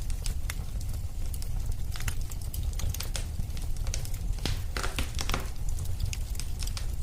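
Wood fire burning, with a steady low rumble and frequent sharp crackles and pops, a few louder ones clustered near the middle.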